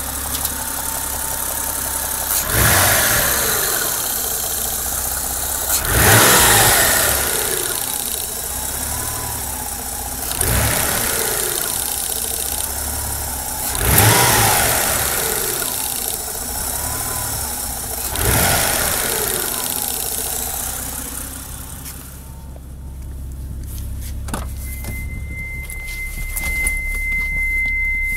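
Mitsubishi 3000GT VR-4's twin-turbo V6 quickly revved five times, about every four seconds, each rev falling back toward idle, with an odd clicking from the engine bay at a steady rate that does not follow the revs as they drop. The click comes only after quick revs on a not-yet-warm engine, and the owner suspects the boost control solenoid. Near the end the engine settles and a steady high-pitched beep sounds.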